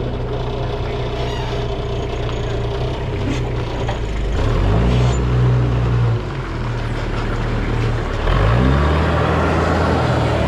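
A vehicle engine running steadily, speeding up about four seconds in, easing back about two seconds later, and speeding up again about eight and a half seconds in.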